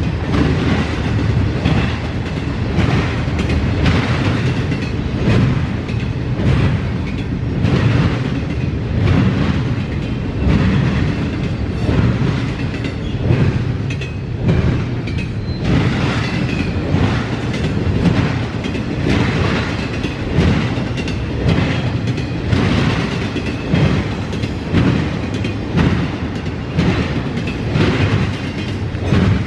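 CSX intermodal freight train rolling past, its wheels clicking in a regular rhythm over rail joints above a steady low rumble.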